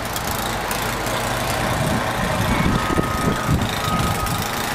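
An engine running steadily under a dense rushing noise, with a faint high steady tone coming in about three seconds in.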